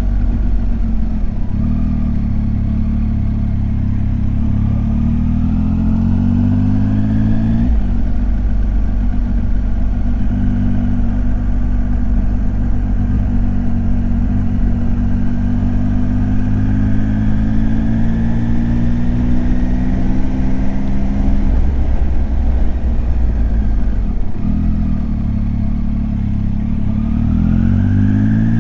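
Triumph Tiger 800 XCX's three-cylinder engine under way, pulling up through the revs, with a sudden drop in pitch at a gear change about eight seconds in. It then holds fairly steady, falls away as the throttle closes a little after twenty seconds, and climbs again near the end.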